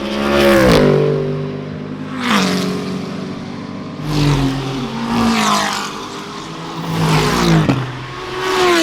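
GT3 race cars passing one after another at speed, about five in succession. Each engine note swells and then drops in pitch as the car goes by.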